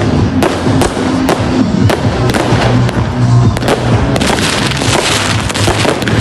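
New Year fireworks and firecrackers going off in quick, irregular bangs. About four seconds in, a dense crackling hiss joins them.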